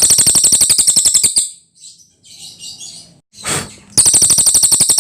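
Cililin songbird singing: two loud, very fast high-pitched trills of evenly repeated notes, each about a second and a half long, with soft scattered twittering between them.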